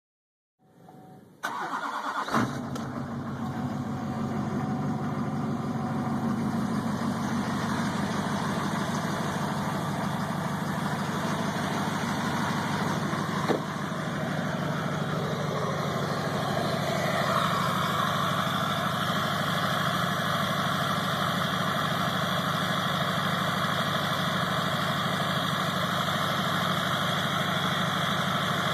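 Duramax LLY 6.6-litre V8 turbo-diesel cold-starting in freezing weather, through a 4-inch straight-pipe exhaust. It cranks briefly, catches about two seconds in and settles into a steady idle. A little past halfway a higher whine comes in over the idle.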